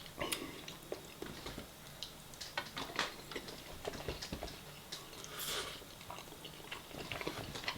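Close-miked eating sounds: chewing with a scattering of small irregular mouth and food clicks, and a short soft swell of noise a little past the middle.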